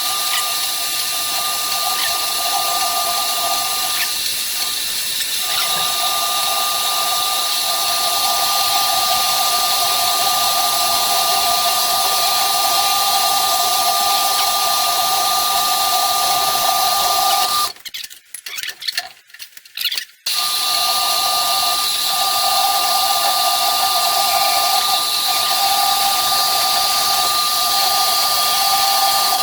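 Harbor Freight bandsaw running and cutting through a steel hydraulic cylinder link: a steady, loud whine with a hiss of the blade in the metal. About 18 seconds in it cuts out for roughly two seconds, with a few brief stutters, then runs on as before.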